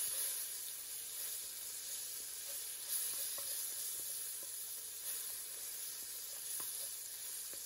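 Diced onions and peppers sizzling steadily in hot olive oil in a cast iron Dutch oven, with a few soft knocks as a wooden spoon stirs in freshly added ground spices.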